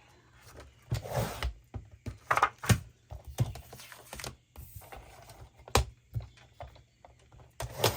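Paper and card being handled and cut on a paper trimmer: a few short swishes of the sliding cut and scattered sharp clicks and taps. The trimmer's blade is going dull and due for changing.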